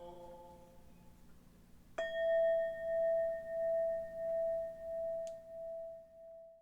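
The chanted mantra dies away, then a Buddhist bowl bell is struck once about two seconds in. It rings on one clear, steady tone with a faint higher overtone, swelling and fading in slow pulses as it decays, and the sound cuts off abruptly near the end.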